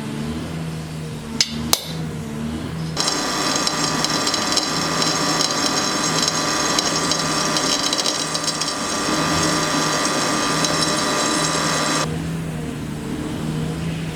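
A power tool's motor runs steadily, with two sharp clicks about a second and a half in. From about three seconds in until about twelve, a louder, hissing grind with steady high ringing tones sets in and then stops suddenly, as of a grinder working the steel of the knife blade.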